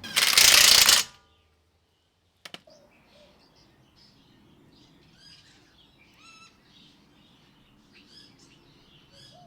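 A loud hiss-like burst of noise lasting about a second, then a short gap and a sharp click, followed by faint birds chirping for the rest of the time.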